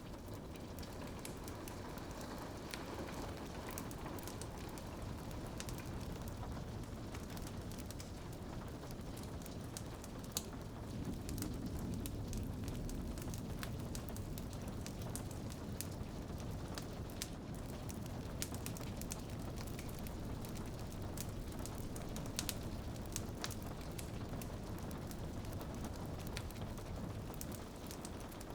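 A wood fire crackling, with frequent sharp pops and snaps, over a steady patter of rain on a window.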